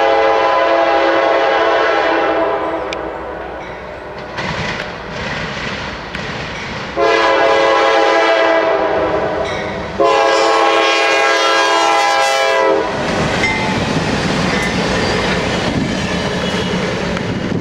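Diesel locomotive air horn on a GE C40-9W (NS 9320) sounded in three long blasts for a grade crossing: one from the start to about four seconds in, then two back to back between about seven and thirteen seconds. After that comes the steady rolling clatter of the train's wheels on the rails as it passes.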